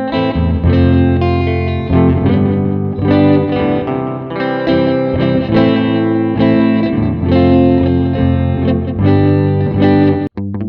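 Electric guitar played through a delay pedal, notes and chords ringing on with echoing repeats. The sound drops out for an instant near the end.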